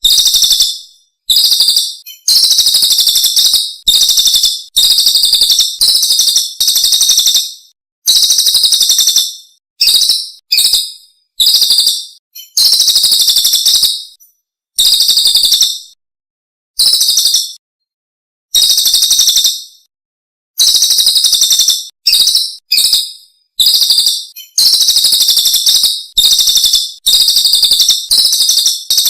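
Songbird song in a masteran tutor recording: a quick run of short, high-pitched song phrases, each under two seconds, with clean silent gaps between them.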